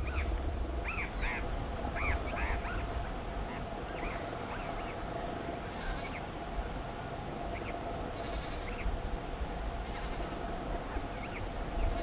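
Andean burrowing parrots calling: short, harsh, arched calls, a quick run of them in the first few seconds and then single calls spaced out, over a low steady rumble.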